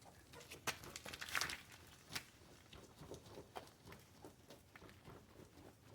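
Faint rustling and scattered light clicks of things being handled, a little busier in the first two seconds.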